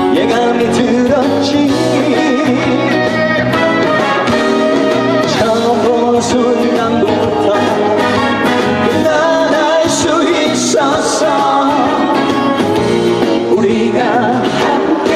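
Trot song performed live: a singer's voice over a loud backing track.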